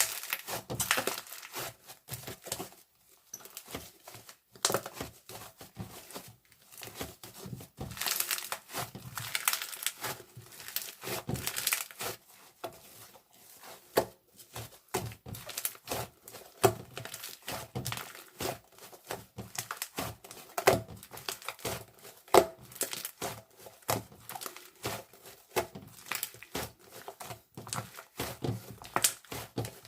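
Crinkly wrapping material being handled, a dense run of rustling and crinkling with many small clicks and taps, pausing briefly near three seconds in and again around the middle.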